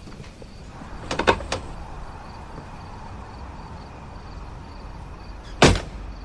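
A door: a few quick clicks about a second in, then one loud shut near the end.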